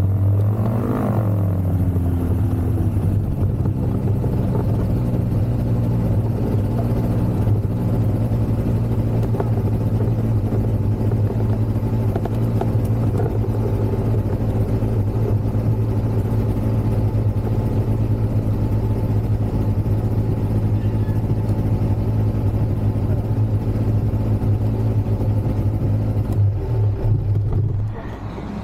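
Ultralight aircraft's engine and propeller running steadily with a strong low hum, its pitch sliding briefly about a second in. Near the end the sound suddenly drops in level.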